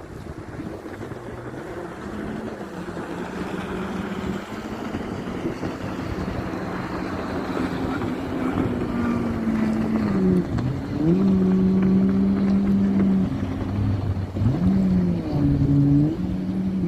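Motorboat engine running and growing louder as it comes closer, its pitch dropping and rising again twice as the throttle changes, with wind on the microphone.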